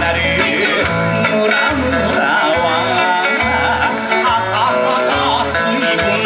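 Kawachi ondo folk music: a singer's voice over plucked electric guitar, with a regular low drum beat.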